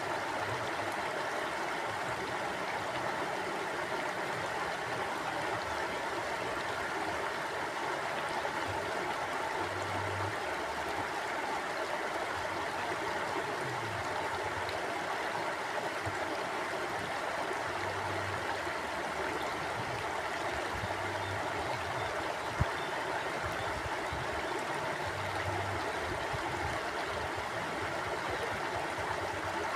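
Flowing stream water, a steady rush with low burbles coming and going. One sharp click about three-quarters of the way through.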